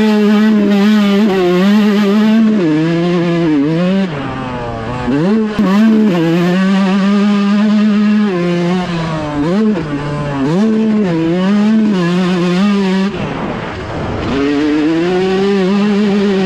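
Motocross dirt bike engine at high revs, its pitch rising and falling repeatedly as the rider shifts and rolls the throttle on and off. A little after 13 seconds in, the revs drop sharply and then climb straight back.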